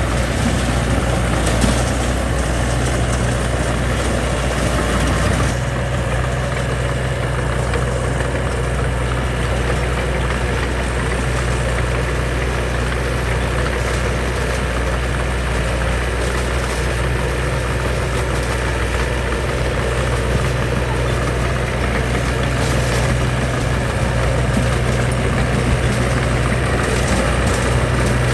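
Heavy diesel construction machine engine running steadily, its sound shifting slightly about five seconds in.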